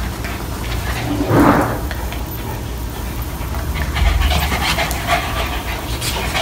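Two small dogs play-wrestling and panting, with scuffling clicks and rustles. One louder short noise comes about a second and a half in.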